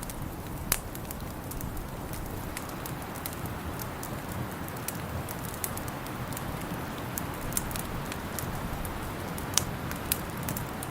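Wood fire crackling in a fireplace: scattered sharp pops and snaps over a steady rushing hiss, with the loudest pops about a second in and twice near the end.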